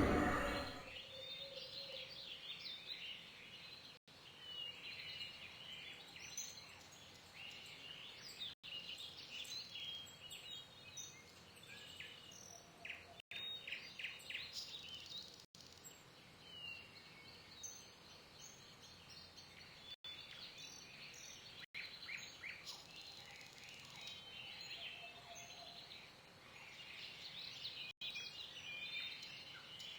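Faint birds chirping and calling over a quiet outdoor background, with short scattered chirps throughout.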